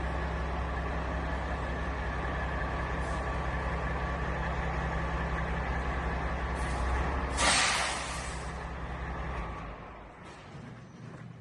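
Peterbilt truck's Caterpillar diesel idling steadily, then a loud sudden hiss of air from the air brakes about three-quarters of the way through, fading over a second or two, after which the engine shuts off.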